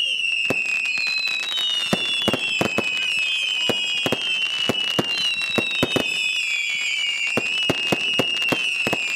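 Fireworks going off: several high whistles sound together and overlap, each sliding slowly down in pitch, over a steady run of sharp bangs several times a second.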